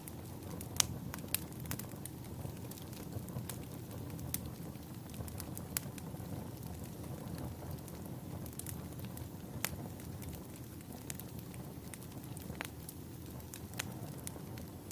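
Wood logs burning in a fireplace: a steady low rush of flame with frequent sharp, irregular crackles and pops, one of the loudest about a second in.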